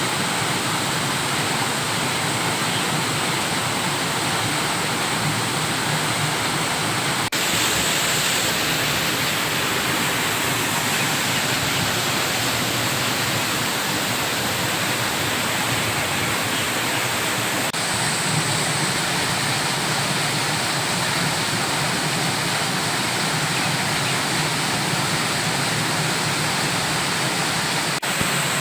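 Steady rush of a waterfall, falling water pouring continuously, with slight shifts in the sound at a few cuts.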